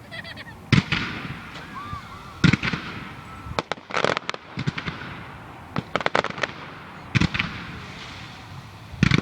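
Fireworks display: loud aerial shell bursts about every one to two seconds, each booming bang trailing off into echo, with quick runs of crackling bangs about four and six seconds in.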